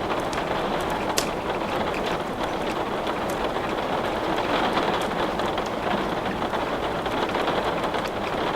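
Steady rain falling, with a few scattered sharp crackles of wood burning in a fireplace, the clearest about a second in.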